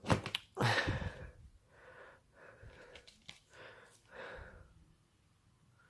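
A person breathing and sniffing close to the microphone: one louder breath about half a second in, then several fainter short breaths.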